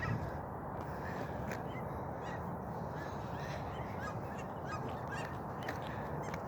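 Canada geese calling, with many short, scattered honks over a steady background hiss.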